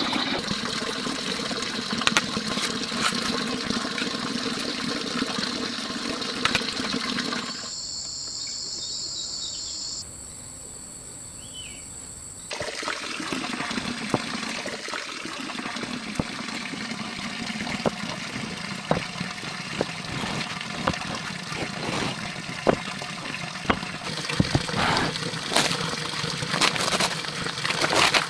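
Water running and trickling, with scattered clicks and knocks. It drops to a quieter, different sound for a few seconds near the middle, then comes back.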